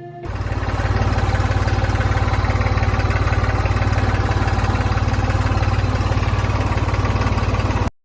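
Miniature model diesel engine running steadily with a rapid, even pulsing. It comes in abruptly just after the start and cuts off suddenly near the end.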